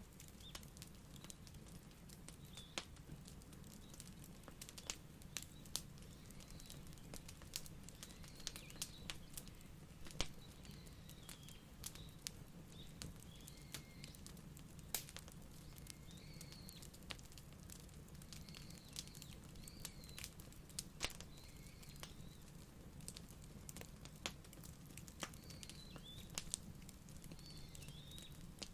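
Wood fire crackling: irregular sharp pops and snaps over a soft low rumble. Small birds chirp faintly throughout.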